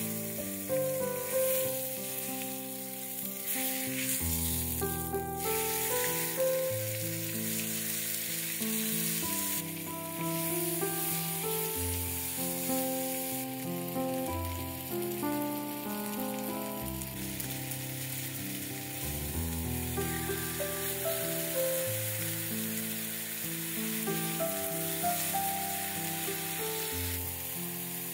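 Chicken breasts frying in olive oil in a cast-iron skillet, a steady sizzle. Background music with held notes plays underneath.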